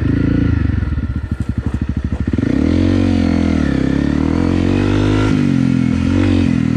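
Honda CRF250 Rally's single-cylinder four-stroke engine chugging at low revs for about two seconds, then revving up and down as the throttle is worked while riding through slippery mud.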